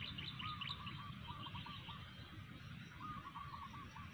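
Wild birds calling: a quick run of high chirps in the first second and a lower trilled call, heard about half a second in and again after three seconds, over a low steady rumble.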